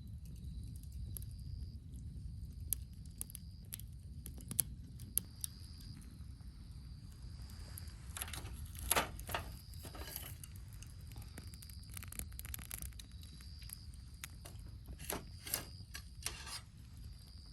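Short scraping strokes and scattered clicks, in two clusters about halfway through and near the end, over a high trill that repeats about once a second and a low rumble.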